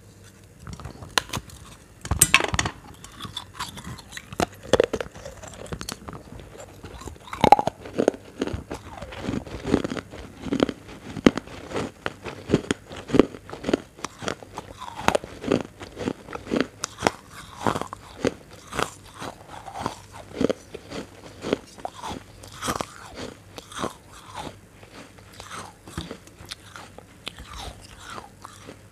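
Close-miked eating of crunchy food: repeated sharp bites and crisp crunches with chewing between them, the loudest bite about two seconds in. The sound is captured by a lapel microphone held right at the mouth.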